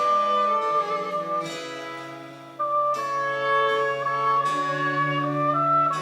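French Baroque chamber music: a flute holding long notes over bowed strings and a low bass line. The music fades about two and a half seconds in, then the next phrase enters.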